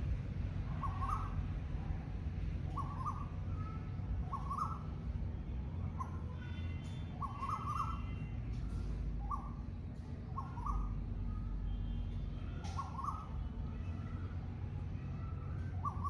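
A bird repeating a short call about once every second and a half, over a steady low rumble, with faint chirps from other birds.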